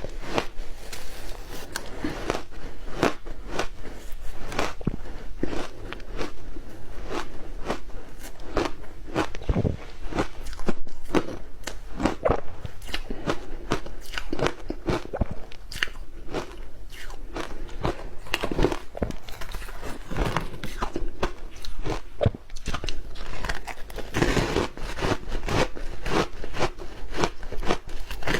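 Ice being bitten and chewed close to the microphone: a continuous run of sharp, crisp crunches, several a second.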